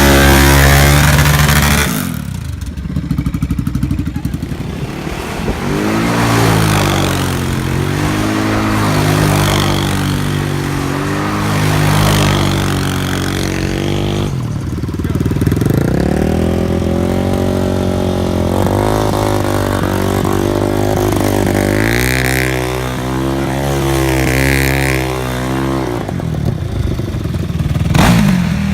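Engine of an off-road quad or dirt bike running under throttle, its pitch repeatedly climbing and then dropping, as when accelerating and shifting or easing off while riding.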